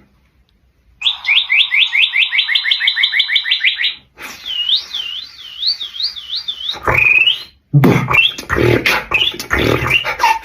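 Bird-like calls. First comes a rapid series of rising chirps, about eight a second. Then a wavering, warbling trill, a single upward glide, and from about eight seconds in a busier mix of chirps and clicky, beatbox-like strokes.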